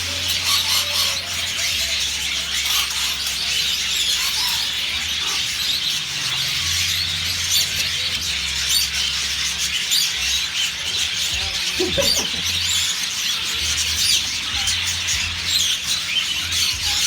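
A flock of caged budgerigars chattering, a dense, continuous mass of high chirps and warbles from many birds at once, over a low steady hum.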